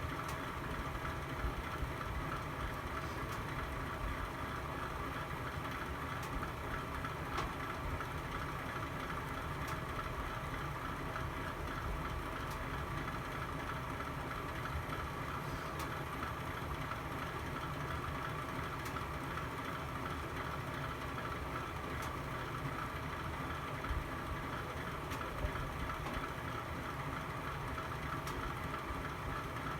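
Fire burning in a home fireplace: a steady low noise with a few faint, sparse crackles and pops.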